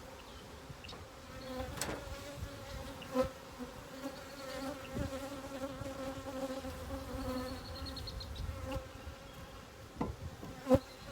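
Honey bees buzzing in a steady drone around an opened hive, stirred up after an inspection, with a few sharp clicks and knocks, the loudest near the end.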